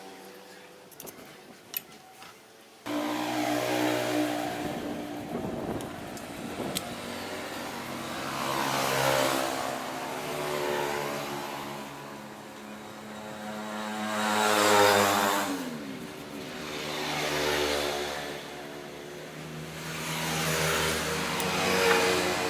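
Old Standard sewing machine running test stitches after repair, speeding up and slowing down in waves every few seconds, after a few seconds of quiet with a couple of clicks.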